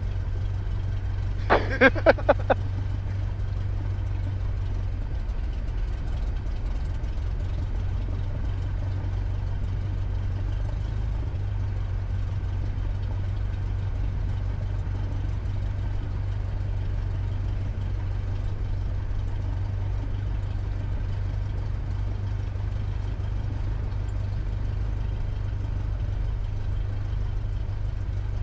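Cessna 172's piston engine running at low idle power during taxi, a steady low drone heard inside the cabin. About two seconds in come four short squeaks in quick succession.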